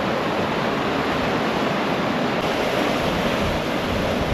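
Steady, loud rush of hot water pouring out of a geyser, running on without a break.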